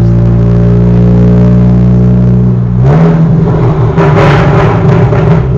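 Big-turbo Mk7 VW Golf R four-cylinder turbo engine running under steady load, then about three seconds in its note changes abruptly and the exhaust breaks into rapid, loud crackles and pops that continue to the end.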